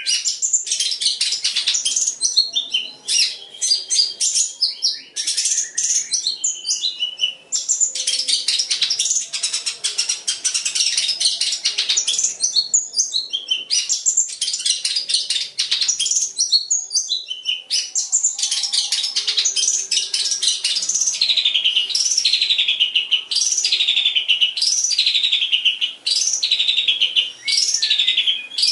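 Long-tailed shrike (cendet) singing a fast, dense chattering song full of rapid-fire mimicked notes. From about twenty seconds in it turns to a run of repeated downward-sweeping phrases, roughly one a second.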